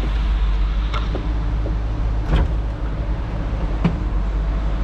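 Ford 5.0 L 302 V8 idling steadily, with three sharp clicks spread across the few seconds.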